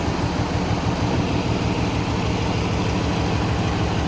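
A vehicle engine running steadily, with a fast, even throb low in pitch.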